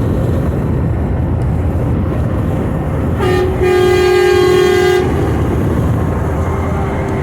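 A Mack Anthem semi truck's air horn gives a short toot about three seconds in, then a steady blast of about a second and a half, over constant highway road noise.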